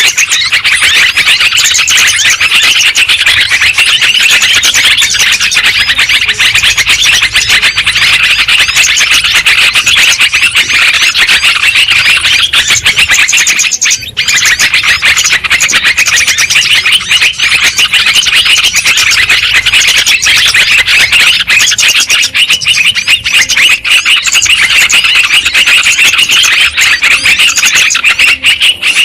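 Yellow-vented bulbul (trucukan) song played as a lure and tutor recording: loud, dense, rapid chattering and chirping that runs on almost without pause, breaking off briefly about halfway through.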